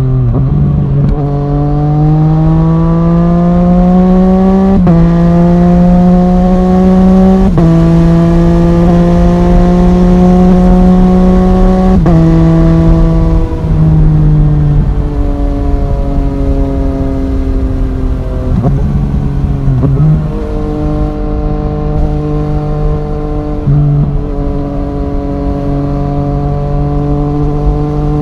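Yamaha MT-09's three-cylinder engine through an Arrow Thunder full exhaust, pulling hard through the gears. Each of the four climbs in pitch in the first twelve seconds ends in a quick upshift. The engine then rolls off and winds down for several seconds, with short rev blips on the downshifts, and settles into a steady cruise.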